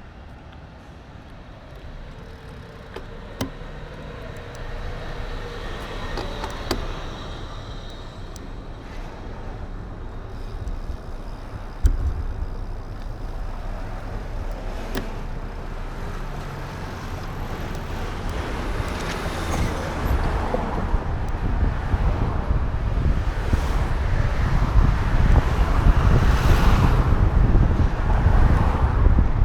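Wind rumbling on an action camera's microphone during a ride, growing steadily louder, with road noise and a few sharp clicks along the way.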